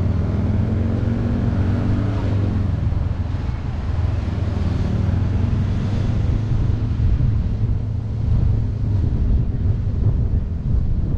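Honda CBR400R's parallel-twin engine running steadily as the motorcycle rides along at low speed, its pitch shifting a little in the first few seconds, with wind noise on the microphone.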